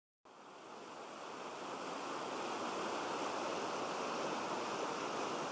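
Steady rushing noise, like running water or surf, fading in over the first two seconds and then holding even.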